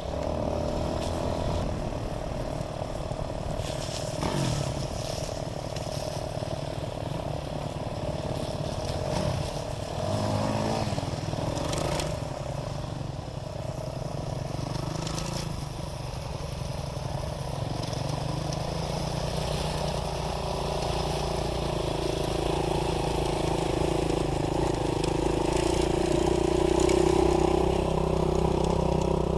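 Dirt bike engine running under way, its pitch rising and falling as the throttle is worked, growing somewhat louder near the end.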